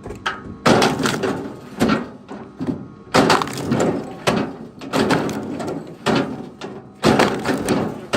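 Pieces of firewood being tossed onto a pile, landing with wooden clunks and clatters about once a second.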